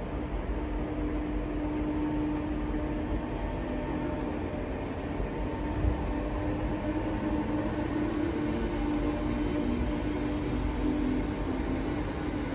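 A train at a station platform, its engine or traction equipment running with a steady low rumble and hum. A single knock comes about six seconds in.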